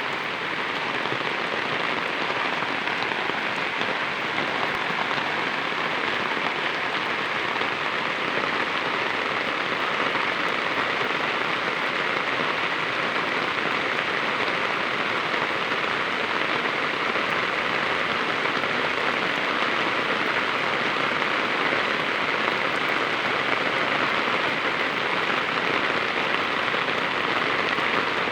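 Steady rain falling, an even hiss of drops on surfaces that holds at the same level throughout.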